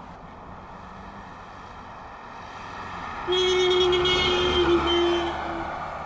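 A vehicle horn sounds for about two seconds, beginning about halfway through, its pitch dipping slightly partway through, over steady running-vehicle noise that grows louder just before it.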